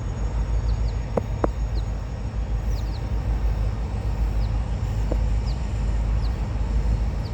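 Diesel freight locomotive running under power as the train moves off: a deep, steady engine rumble, with a couple of faint knocks a little over a second in.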